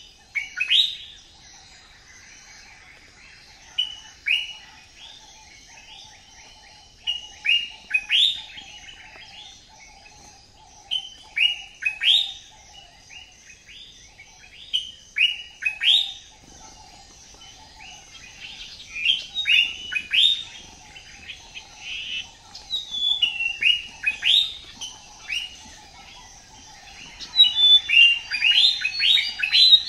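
Birds chirping: many short, quick falling chirps in clusters, busiest near the end, over a faint steady buzz.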